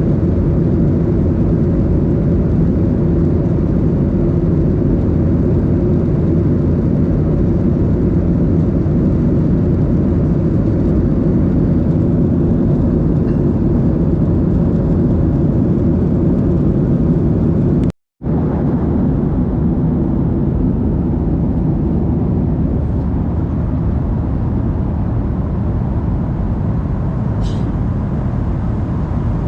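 Steady cabin noise of a Boeing 737-800 in flight: a low, even rumble of its CFM56 engines and rushing air. The sound cuts out for a split second about two-thirds of the way through.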